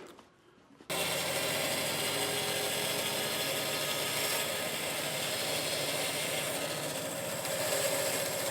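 A power tool running steadily in a woodworking shop, cutting in abruptly about a second in.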